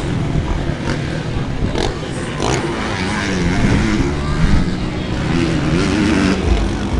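Motocross bike engines revving as the bikes race around the dirt track, their pitch rising and falling with the throttle.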